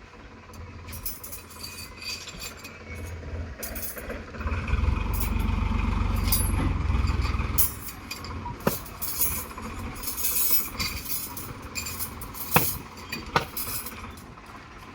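A vehicle engine running, much louder for about three seconds near the middle, with a few sharp clinks later on.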